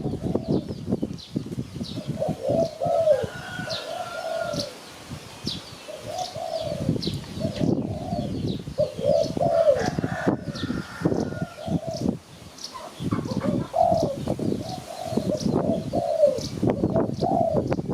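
Spotted doves cooing, repeating short phrases of several arching coos, with faint high chirps from small birds and a rough low rustling noise underneath.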